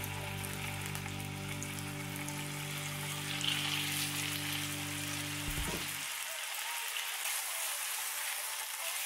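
Chicken breast fillets sizzling in hot oil in a frying pan, a steady crackling hiss.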